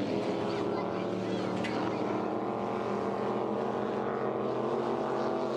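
Motorboat engine running steadily, its pitch slowly falling.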